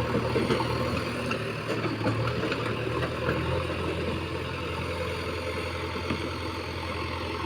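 Heavy diesel engine running at a steady speed, with an even, low engine note.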